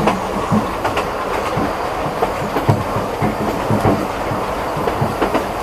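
Open carriage of a narrow-gauge steam train running along: a steady rumble and rattle with irregular knocks and clatter from the wheels over the rail joints.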